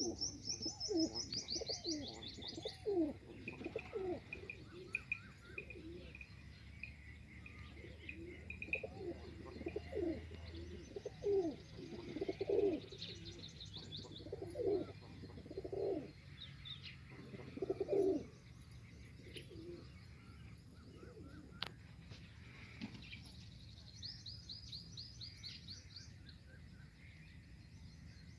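Pigeons cooing in repeated low calls, with small birds chirping in quick high trills at the start and again near the end. The cooing stops about two-thirds of the way through.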